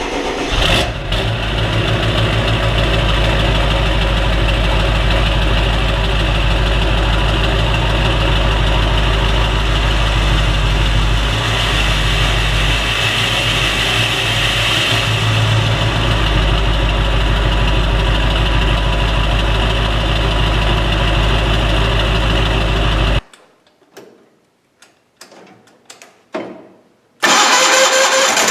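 An engine running steadily, then cutting off abruptly about 23 seconds in. A few knocks follow in near quiet, and near the end a different loud, hissing machine noise starts.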